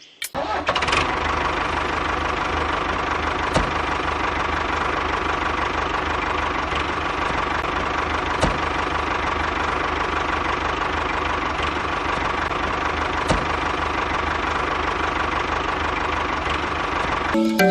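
A small electric motor running steadily with a buzzing hum, with a few sharp clicks along the way. It starts just after the beginning and cuts off abruptly near the end.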